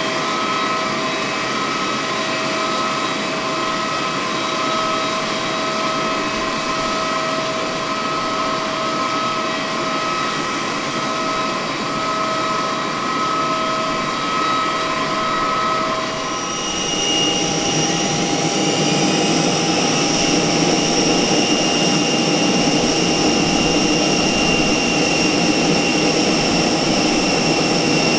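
Steady high whine of an Airbus A320's jet turbines. About 16 seconds in it changes abruptly to a louder whine whose pitch rises over the next few seconds before it settles.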